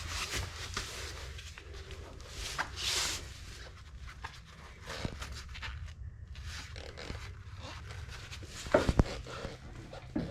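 Hand-work handling noise: irregular rustling and scraping with scattered clicks, then a quick cluster of sharp knocks about nine seconds in.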